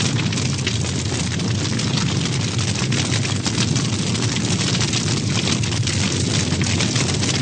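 A large bonfire of a burning Maslenitsa straw effigy, roaring steadily with dense crackling.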